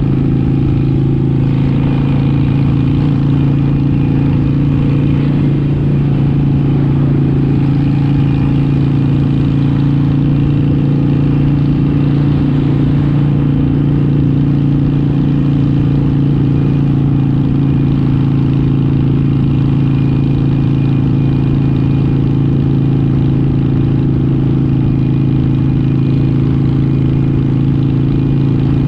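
Motorcycle engine running at a steady highway cruise, its note holding one unchanging pitch throughout, heard from the rider's position.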